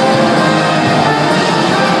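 Loud live rock music from a band, with guitars prominent in the dense, steady sound.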